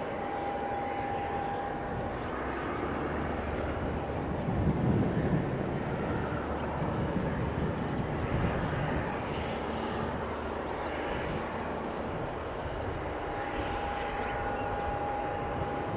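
Diamond DV-20 Katana, a light single-engine propeller aircraft, with its engine running steadily. The sound swells briefly about four to five seconds in.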